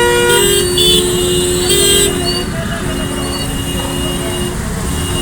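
Vehicle horns honking in several overlapping pitches over steady road-traffic noise. The honks are loudest in the first two seconds, and a quieter held horn tone follows from about three to four and a half seconds in.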